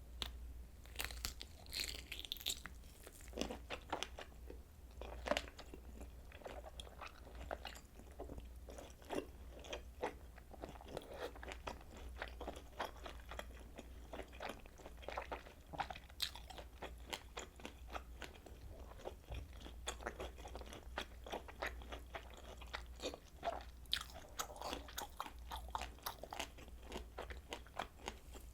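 Close-miked chewing and biting of kielbasa sausage: a dense run of crunchy bites and wet mouth clicks, continuous and irregular, over a faint steady low hum.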